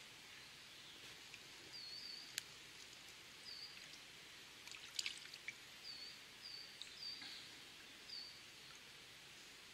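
A small bird chirps in short high notes, repeated every second or so from about two seconds in, over a faint steady rush of river. A couple of small sharp splashes come as hands release a trout in the shallow water, one about two and a half seconds in and the loudest about five seconds in.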